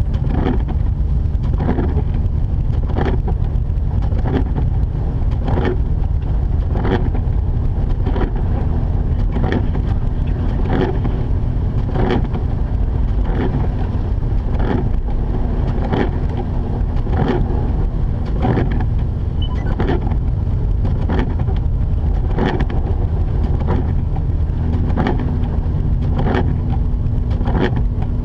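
Mazda RX-8 driving at a steady pace: the twin-rotor rotary engine running with a constant low drone and road noise, with a faint regular swish a little under once a second.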